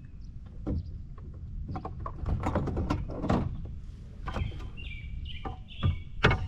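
Irregular knocks and clatter of gear being handled, with a bird chirping several short times in the second half.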